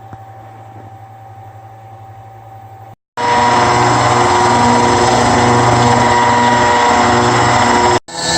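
A low steady hum for about three seconds, then, after a sudden cut, a CNC router's spindle milling aluminium: a loud steady whine with several held tones, which breaks off briefly near the end.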